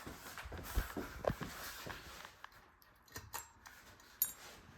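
Faint scattered clicks and knocks, with a brief light metallic jingle near the end: a ceiling fan's light-kit pull chain being handled.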